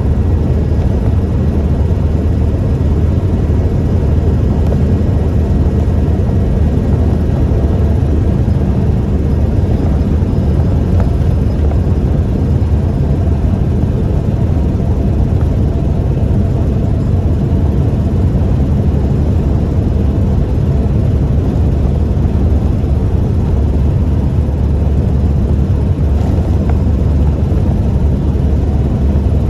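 A 1998 Toyota Tacoma 4WD pickup being driven: a steady low drone of engine and road noise, holding even with no revving or gear changes.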